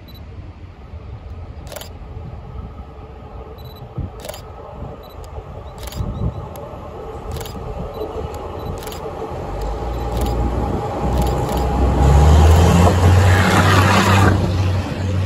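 Diesel CMB30 overhead-line maintenance rail vehicle approaching and passing: its engine rumble grows steadily louder, with wheel-on-rail noise loudest as it goes by near the end. Sharp clicks recur every second or two through the approach.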